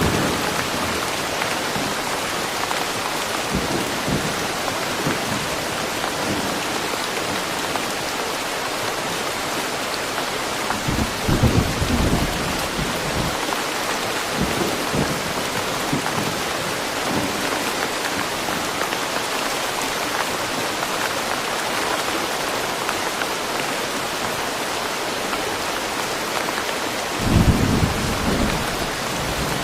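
Steady heavy rain falling on a forest, an even hiss of drops. A few short, low rumbling thumps rise above it, the loudest about eleven seconds in and again near the end.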